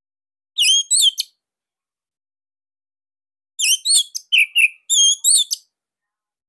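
Songbird singing two bursts of short, clear, whistled phrases, each made of quick up-and-down notes: a brief one about half a second in and a longer run a few seconds later.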